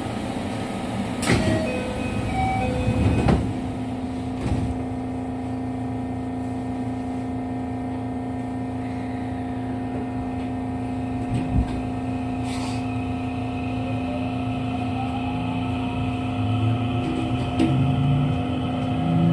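Onboard sound of a JR West 207 series electric train: a steady electrical hum with a few knocks in the first few seconds. Near the end, low stepped tones from the traction inverter and motors begin.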